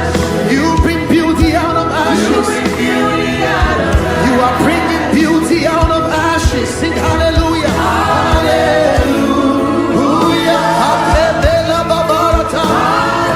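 Gospel worship song sung live by voices over band accompaniment, with a steady drum beat.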